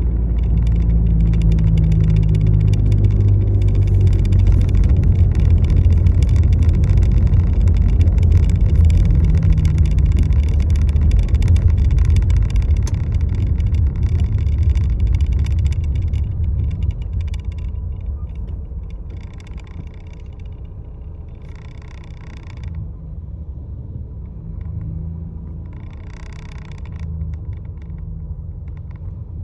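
Steady low rumble of a moving road vehicle, with a few faint ticks over it, easing off and quieter after a little over halfway through.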